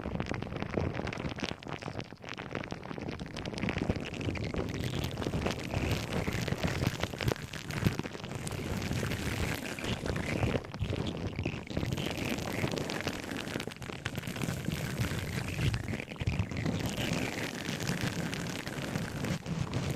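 Close-miked objects being handled, making a continuous dense crackling and rustling full of small clicks and taps, with faint scraping squeaks now and then.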